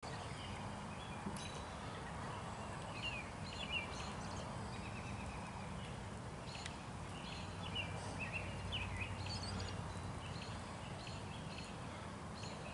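Birds chirping in short, scattered calls over a steady low hum of background noise.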